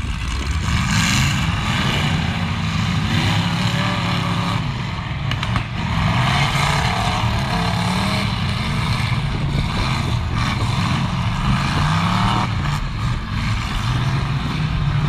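Several demolition-derby cars' engines running and revving together, their pitches rising and falling, with a brief knock about five and a half seconds in.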